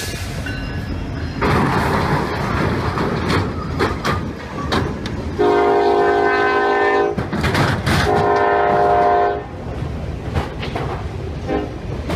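A diesel freight train rumbling through a grade crossing, with crunching and scraping as it strikes and shoves a tractor-trailer. The locomotive horn sounds two long blasts, a chord of several tones, about five and a half and eight seconds in, then a brief faint one near the end.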